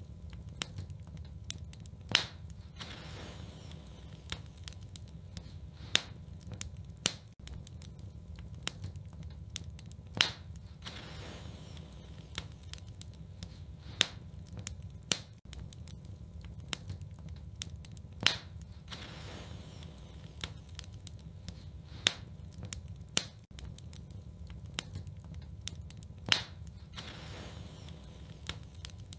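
Wood fire burning in a fireplace: a steady low rumble of flames with crackling and sharp pops every few seconds.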